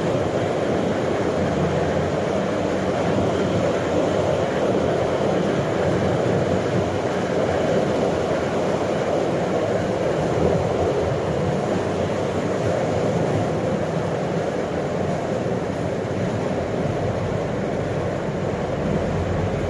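Steady running noise inside a moving metro train car: an even low rush of the train travelling along the track, with no breaks or changes.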